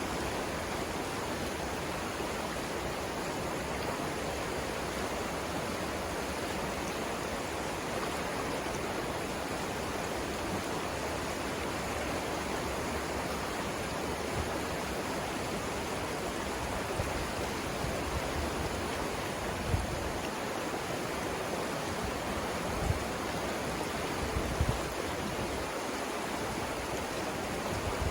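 Steady rush of river water flowing over rapids. A few brief low thumps come in the second half.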